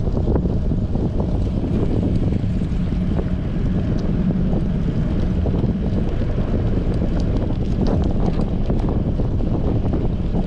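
Wind buffeting the microphone of a bicycle-mounted action camera while riding in strong wind: a steady low rumble with scattered faint clicks.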